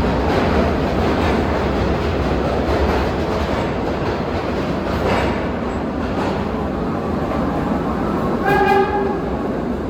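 New York City subway car running through the tunnel: a steady loud rumble with rattling of the car and wheels on the rails. Near the end a short pitched tone sounds briefly over the rumble.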